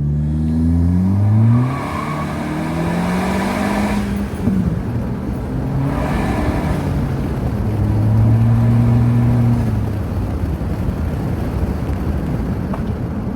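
2012 Acura RDX's turbocharged 2.3-litre four-cylinder accelerating hard, its exhaust running through a glasspack resonator with the rear muffler deleted. The engine note climbs in pitch and falls back at a couple of upshifts, holds a steady drone about eight seconds in, then eases off.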